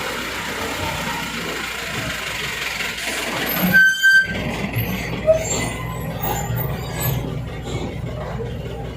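Heavy truck engine running steadily at low speed under a heavy load, with a brief sharp break in the sound about four seconds in.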